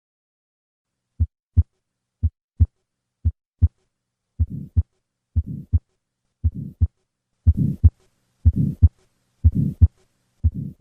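Recorded heart sounds beating about once a second: the first few beats are plain paired first and second sounds, then a systolic murmur fills in between them, and near the end a diastolic murmur is added. Together these are the combined murmurs of pulmonic stenosis and pulmonic regurgitation, as left after surgical repair of tetralogy of Fallot.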